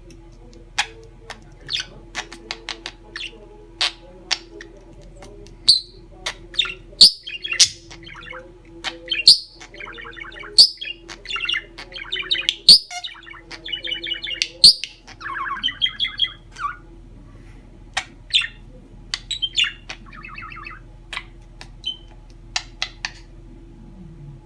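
Pet budgerigar chattering: sharp chirps and clicks, with runs of rapid warbling budgie chatter in the middle.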